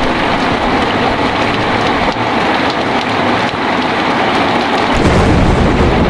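Heavy rain pouring steadily in a dense, even hiss. About five seconds in, a deep low rumble comes in under the rain.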